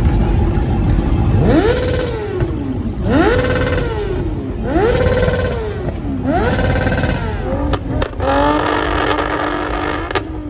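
Car engine revved four times in a row, each rev climbing quickly and falling back, then holding a steadier tone with a few sharp cracks near the end.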